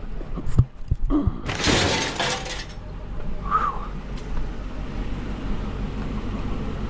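A few sharp knocks, then a crash of something breaking or clattering apart that lasts about a second, starting about a second and a half in.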